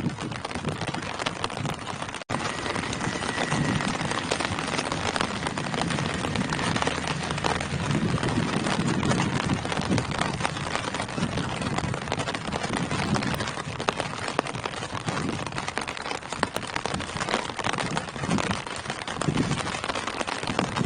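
Steady rain falling on tree foliage, a dense, even hiss with heavier swells now and then. The sound cuts out for an instant about two seconds in.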